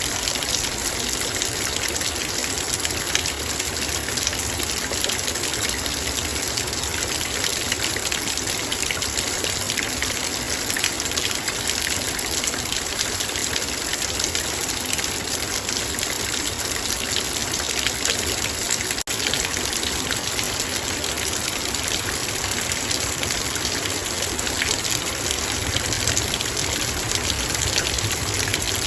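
Heavy rain falling on a metal bowl: a steady, dense patter of countless drops striking the metal over the hiss of the downpour, with one momentary break about nineteen seconds in.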